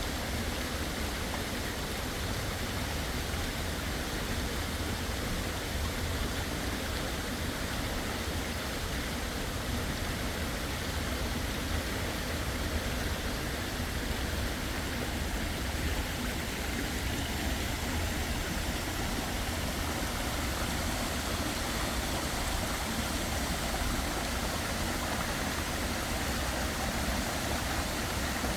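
Steady rushing water of a waterfall, an even hiss over a low rumble, unchanging throughout.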